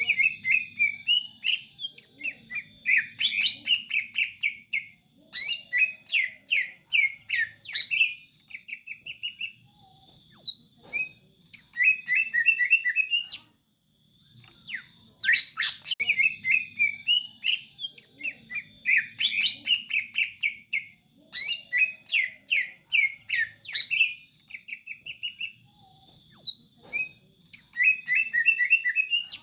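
Cucak ijo (green leafbird) song: fast chirps, trills and short whistled notes with thin high tones above, from a masteran recording that loops and starts over about halfway through.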